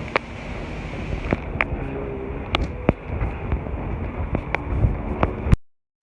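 Strong gusty wind buffeting the microphone: a heavy, steady rumble with scattered sharp clicks and knocks, cutting off abruptly about five and a half seconds in.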